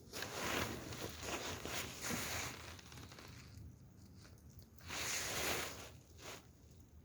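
Two bursts of rustling, scraping handling noise: the first runs about three seconds, and a second, shorter one comes about five seconds in.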